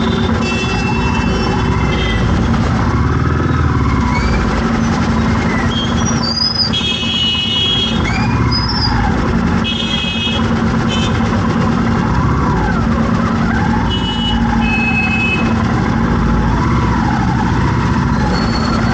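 Heavy, slow traffic: engines running close by, with car horns honking in short blasts every second or two. A wavering siren-like wail rises and falls underneath.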